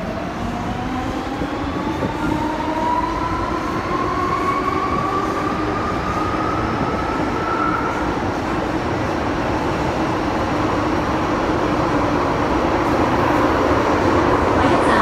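Hong Kong MTR M-Train electric multiple unit accelerating: a set of rising motor whines climbs in pitch over the first eight seconds, over a steady rail rumble that slowly grows louder as speed builds.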